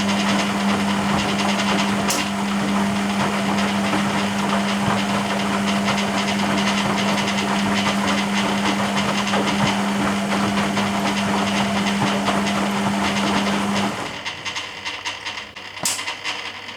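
Hoover Keymatic A3112 washing machine running its rinse: the drum motor hums steadily while the load and water churn with a hissing wash noise. The motor and the churning stop about 14 seconds in, the pause before the drum turns again.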